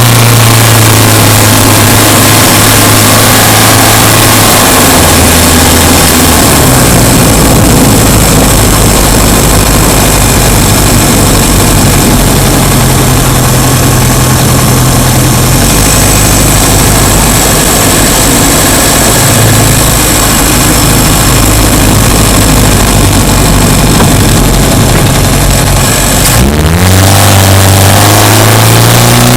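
Subaru Impreza Sport's flat-four engine running under way, its pitch holding steady and stepping between levels, then revving up with a rising pitch near the end.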